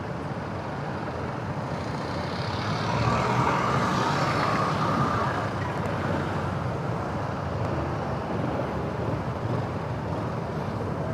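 Motorcycle riding in traffic: steady engine and road noise, with a louder stretch from about two to five seconds in.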